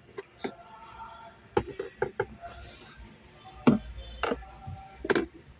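Irregular clicks and knocks of hand tools on the interior trim as its four top screws are undone. The loudest knocks come near four and five seconds in.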